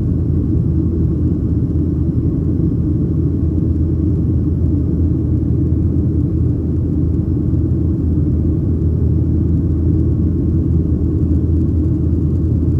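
Cabin noise inside a Boeing 737-800: a steady low rumble of engines and airflow, even throughout.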